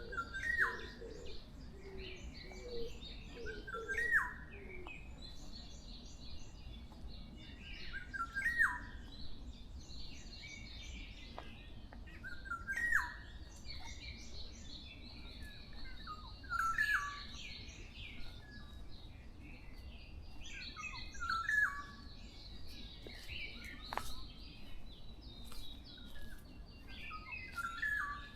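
Forest songbirds singing together. One bird repeats a short phrase about every four seconds, each ending in a sharp falling note, over higher, busier chirping and trills from others. Low cooing notes sound in the first few seconds.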